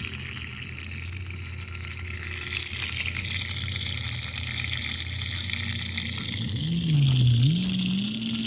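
Chicken frying in oil in a pan over a campfire, a steady sizzling hiss. Under it runs a low steady hum, and near the end a low tone dips and then rises in pitch.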